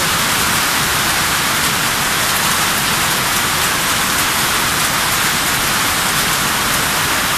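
Heavy rain pouring steadily onto a plastic tarpaulin canopy and the paved yard around it, an even, unbroken hiss with no let-up.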